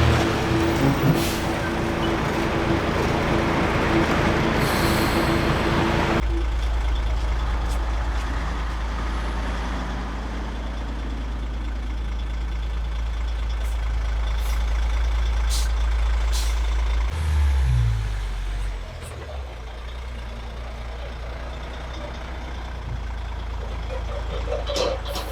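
Large truck running, with a loud hiss of air for about the first six seconds that stops abruptly. A low, steady engine rumble carries on, with a brief rise and fall in engine pitch past the middle and a few sharp clicks.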